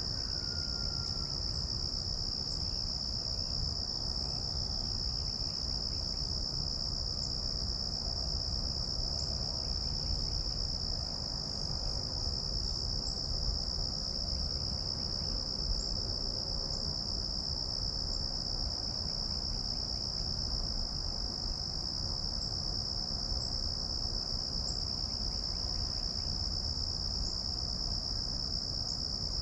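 Insects chorusing in one steady, unbroken high-pitched drone, over a low outdoor rumble.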